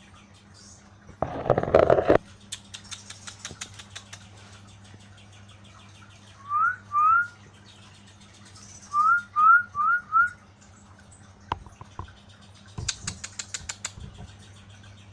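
Short rising whistles, two and then four in quick succession. A brief loud rustling burst comes near the start, and rapid clicking comes twice.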